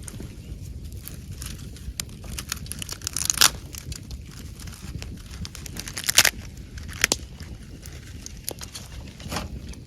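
Wood campfire burning and crackling, with scattered sharp pops over a steady low rumble; the loudest pops come about a third of the way in and just past halfway.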